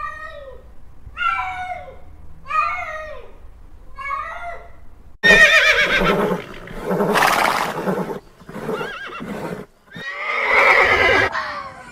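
Horses neighing: three short falling calls, then, after an abrupt cut about five seconds in, louder, longer whinnies with a wavering pitch.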